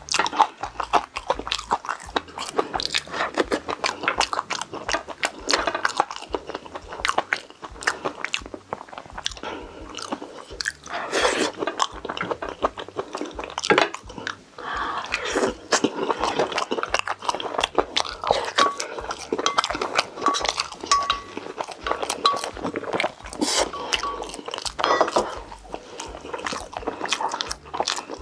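Close-miked eating sounds: a person biting and chewing food, with crunching and wet mouth clicks throughout.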